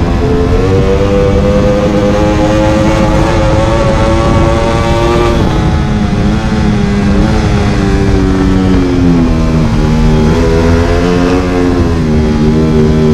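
Ducati Panigale V4 R's 998 cc V4 engine under hard acceleration, its note climbing steadily for about five seconds. The note then drops as the throttle comes off and the bike slows for a turn, and it picks up again near the end.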